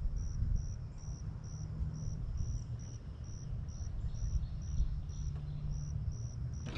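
A cricket chirping steadily at one high pitch, about two to three short chirps a second, over a low rumble.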